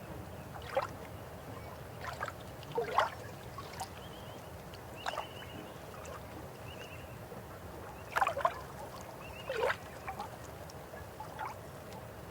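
River water flowing steadily, with irregular gurgles and splashes standing out from the rush about six times.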